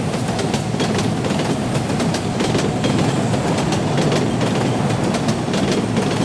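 Heavy machinery clattering steadily, a loud dense rumble packed with many small knocks, like rock being handled or crushed.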